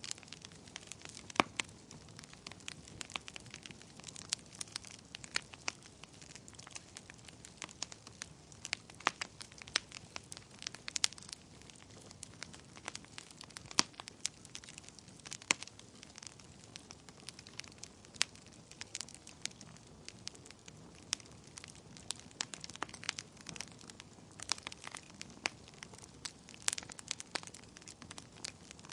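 Wood fire burning in a fireplace: a soft steady hiss of flames with frequent irregular crackles and sharp pops from the burning logs.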